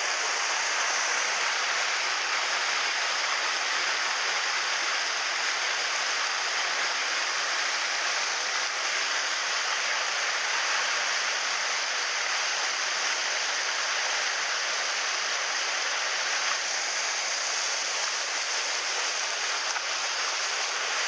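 Fast mountain stream running, a steady, noisy rush of water.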